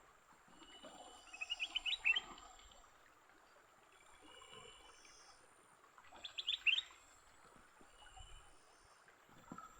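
A bird singing two short phrases, each a quick run of five or six rising whistled notes, a few seconds apart.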